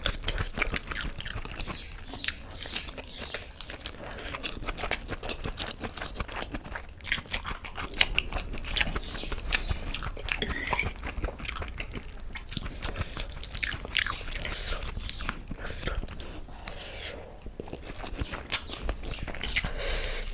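A person chewing masala Maggi noodles close to the microphone: a steady stream of small wet mouth clicks and smacks.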